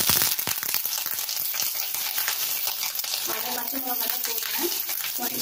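Tempering sizzling and crackling in hot oil in a steel kadai: fresh curry leaves and green chillies just added to mustard seeds and dals, spitting and popping steadily. A spoon stirs them near the start.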